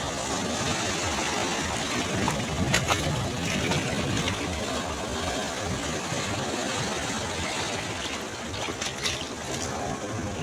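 Sea waves washing on a beach in a steady, unbroken rush, with a few brief crackles twice.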